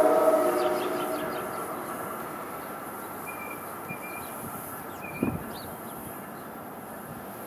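New Jersey Transit commuter train moving away: the tail of its horn dies out in the first second or so, then the rumble of the train fades into the distance. Birds chirp throughout, and a single low thump comes about five seconds in.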